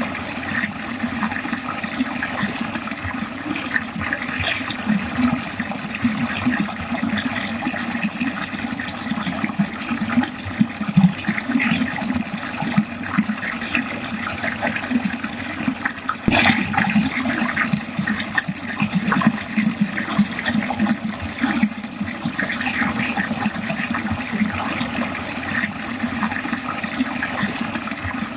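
Water draining steadily down a drain in a continuous flow, with a brief click about sixteen seconds in.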